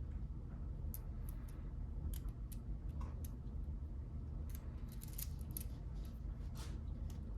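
Irregular small clicks and taps of plastic Lego pieces being handled and pressed together, a quick cluster about two-thirds of the way through, over a low steady hum.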